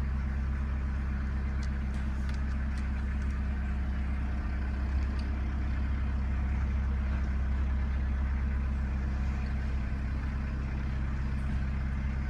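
Narrowboat engine running steadily at slow cruising speed, a constant low drone.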